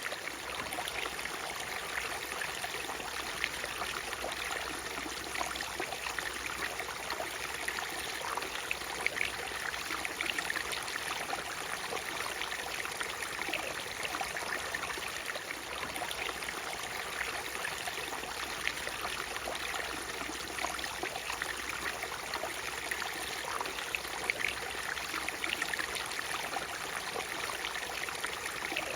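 Natural waterfall: a steady rush of falling water with many small splashes and trickles.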